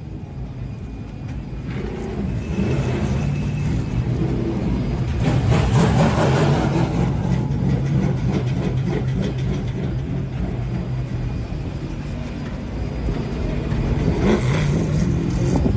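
NASCAR Truck Series race truck's V8 engine running with a steady low drone. It swells louder about five seconds in and again near the end.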